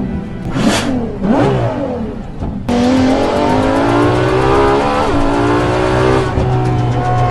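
Ferrari LaFerrari Aperta's naturally aspirated V12 revving in quick blips, the pitch rising and falling. About two and a half seconds in, the sound jumps abruptly to full-throttle acceleration: the pitch climbs, dips at an upshift, climbs again, and then holds steady near the end.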